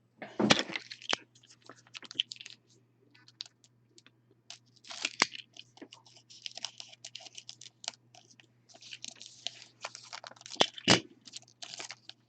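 Trading cards and pack wrappers being handled: irregular crinkling and rustling with small clicks and taps as cards are moved and a foil pack is torn open.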